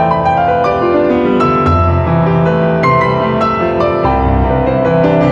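Background piano music, slow held notes with deep bass notes underneath.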